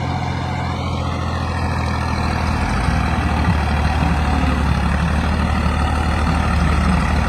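Tractor engine running hard, a steady loud throb whose note deepens and grows louder about three seconds in, as under a heavy load.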